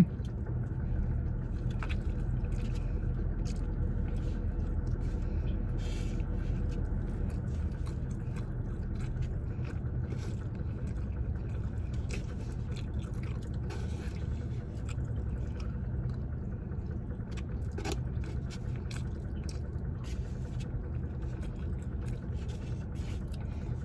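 A person chewing food, with small scattered clicks and scrapes of eating, over a steady low background hum.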